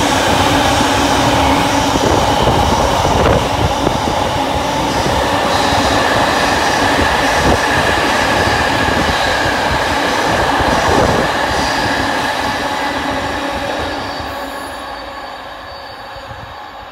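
Train running past close by, a loud rumble of wheels on rails with a steady high tone over it, fading away over the last few seconds.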